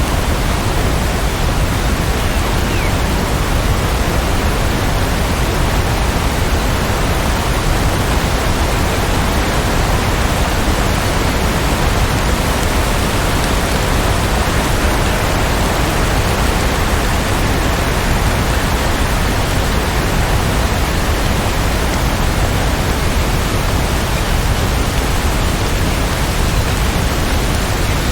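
Steady rain falling, a dense, even hiss with no single drops, thunder or other events standing out.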